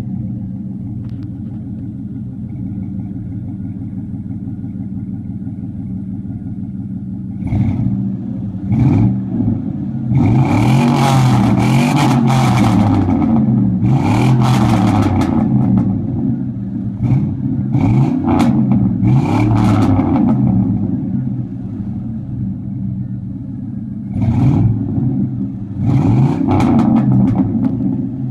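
2004 Chevy Silverado 1500 with true dual exhaust and Flowmaster Super 40 mufflers, idling just after start-up and then revved repeatedly. There are two short blips about 7 and 9 seconds in, then a long run of revs rising and falling, a spell of idle, and a few more blips near the end.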